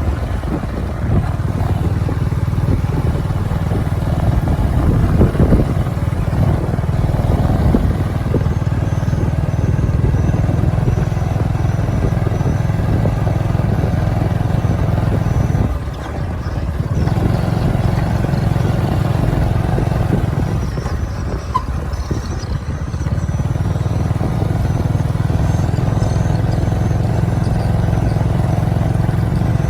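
Motorcycle engine running steadily while riding. The level drops briefly twice, about halfway through and again about two-thirds through, as if the throttle eases off.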